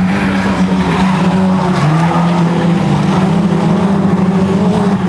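Racing car engines running hard at steady high revs, with a second, lower engine note joining in for about a second around two seconds in as more than one car is heard.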